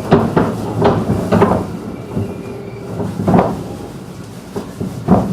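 211 series electric train's wheels knocking over rail joints and points at low speed, a few irregular heavy clunks over a steady running rumble. The rumble fades as the train slows.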